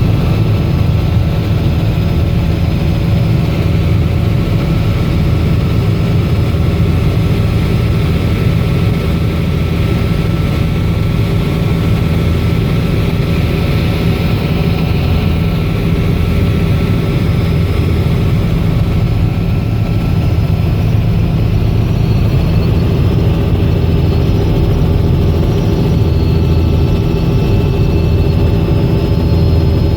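Robinson R66 helicopter's turboshaft engine and rotor running steadily, a continuous loud drone with a deep rotor rumble and steady higher tones.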